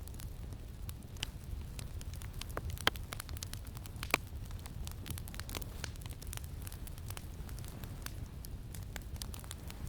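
Campfire crackling with many small snaps and two sharp, louder pops about three and four seconds in, over a steady low rumble of wind.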